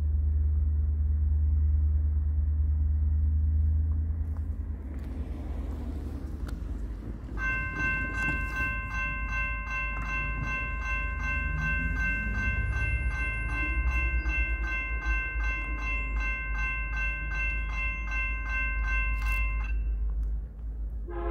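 Train rumbling past with a deep, steady low rumble. About seven seconds in, a multi-chime train horn sounds one long, steady blast of about twelve seconds before cutting off.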